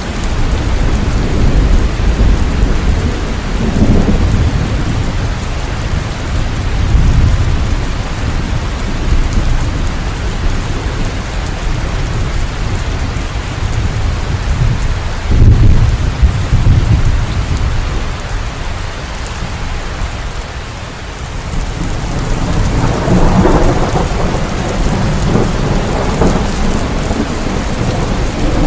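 Steady rain with low rolling thunder that swells and fades a few times, loudest about fifteen seconds in.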